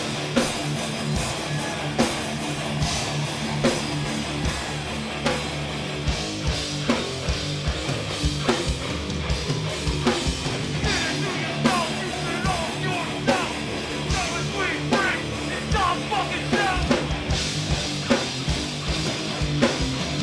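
A live hardcore punk band playing loud, with distorted guitars and bass holding low chords over a driving drum kit, its snare and cymbal hits punching out regularly.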